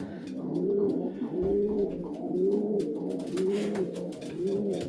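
Several racing pigeons cooing in the loft, low rounded coos repeating about every half second and overlapping from different birds.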